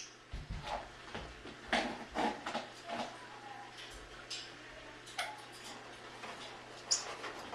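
Irregular light clicks and taps from household cleaning, a dozen or so scattered over several seconds, with a few faint short tones between them.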